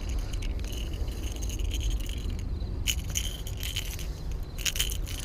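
Fishing tackle rattling: a Spook topwater lure and its treble hooks jingling and clicking in a few short bursts as a just-landed bass is handled, over a steady low rumble.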